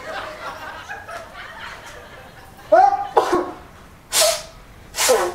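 A man sneezing: a loud drawn-out 'ah' build-up about three seconds in, then two loud sneezes about a second apart.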